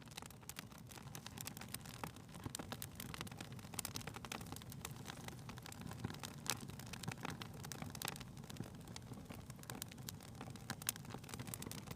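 Wood fire crackling in a fireplace: frequent irregular sharp pops and crackles over a steady low hum.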